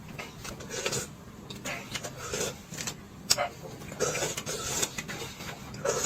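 Eating noises: irregular chewing and crunching of food with small clicks.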